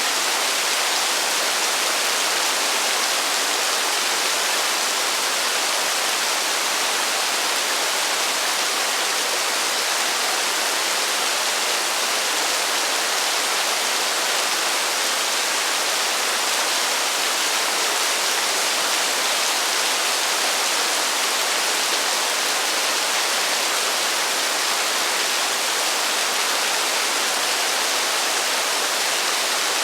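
Heavy rain falling as a dense, steady hiss, with no single drops or thunder standing out.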